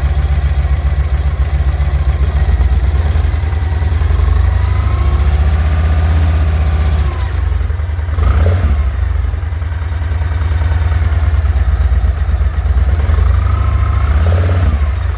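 Yamaha XV1700 Road Star Warrior's V-twin engine running with a loud low rumble. A high whine glides up and back down twice, and there is a brief knock about eight seconds in: the weird sound the owner links to a shifting problem.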